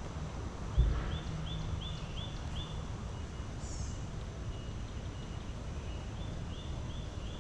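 Birds calling: a run of short rising chirps, about three a second, comes twice, with a brief very high call every few seconds. A low thump sounds about a second in over a steady low rumble.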